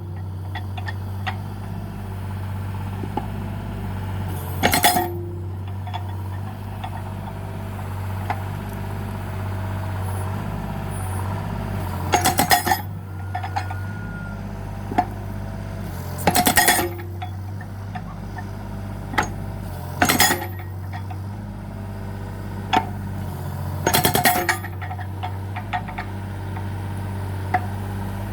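Mini excavator's engine running steadily while its hydraulic breaker hammers in short bursts of rapid blows every few seconds, with a few single knocks between.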